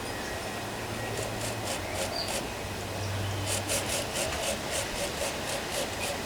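Rhythmic scraping strokes, about four a second, louder from about halfway through, over a low steady hum.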